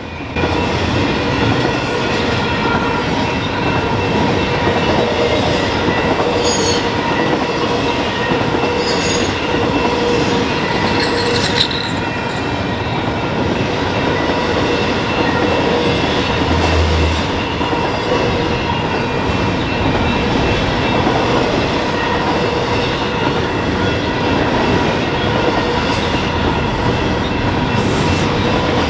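Double-stack intermodal train's well cars rolling steadily past, loud, the wheels clattering over the rails with a steady high squeal and a few sharp clicks.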